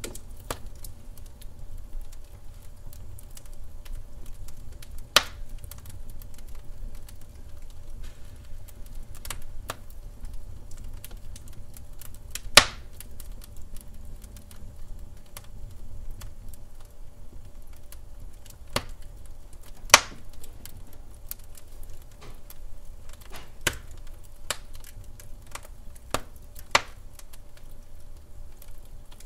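Wood fire crackling: irregular small pops and snaps over a steady low rumble, with three much louder snaps spread through.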